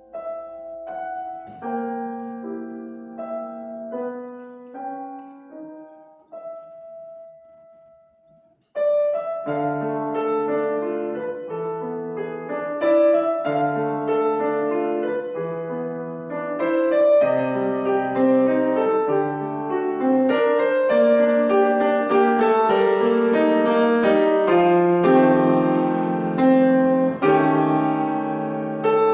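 Piano playing classical music: soft, sparse notes for the first several seconds, a brief pause, then louder, fuller playing with dense chords from about nine seconds in.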